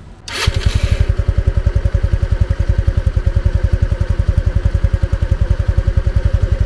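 Italika Vitalia 150 scooter's single-cylinder four-stroke engine idling, heard at the exhaust muffler as a steady, even run of low putts. The exhaust note is soft and muffled ('bofo'), with little mechanical engine noise. The sound comes in sharply about half a second in.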